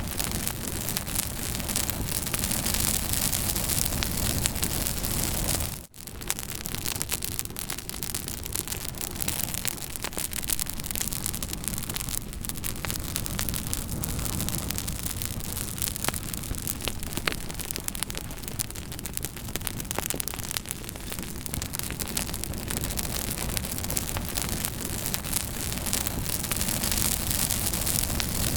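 Campfire burning, with frequent sharp crackles and pops over a dense hiss; the sound cuts out for a moment about six seconds in.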